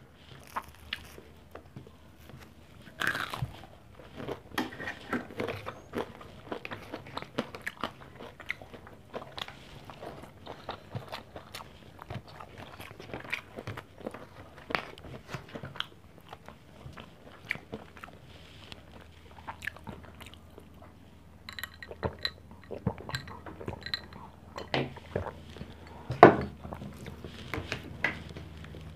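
Close-up eating sounds: crispy fried pork chop being bitten and chewed with an irregular run of crunches, clicks and mouth noises, and a sharper crack about 26 seconds in.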